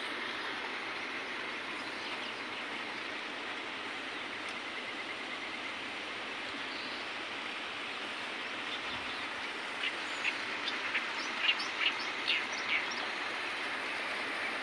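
Steady rushing outdoor background noise, with a run of about eight short, sharp bird chirps starting about ten seconds in.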